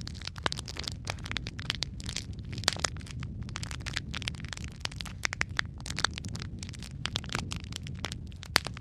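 Wood fire burning in a fireplace, with a low steady rumble of flames and frequent irregular crackles and sharp pops from the burning logs.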